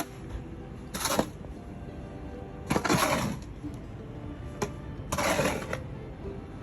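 Three scraping strokes of snow being cleared, each about half a second long and roughly two seconds apart.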